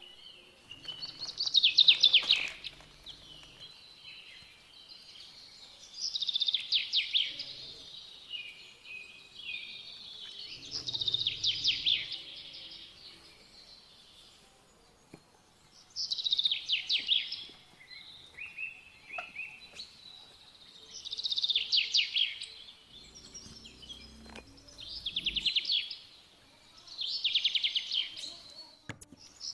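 A songbird singing short, fast trilled phrases about every four to five seconds, with faint low knocks and rumbles in places.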